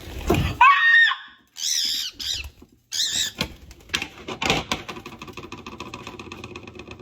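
A bird screaming: a few short, shrill, arching calls in the first three or four seconds, followed by a fast, evenly repeating rattle that carries on to the end.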